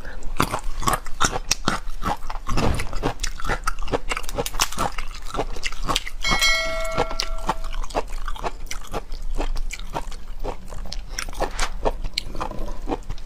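Close-miked eating: wet chewing and crunching of large red prawns, with cracks and snaps as the shell is pulled apart by hand. A short electronic chime rings out about six seconds in.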